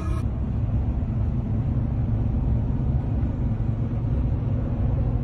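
Steady low rumble of a moving car, its road and engine noise.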